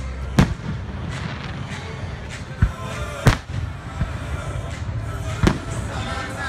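Aerial firework shells bursting: four sharp bangs, about half a second in, twice near three seconds, and once more near the end.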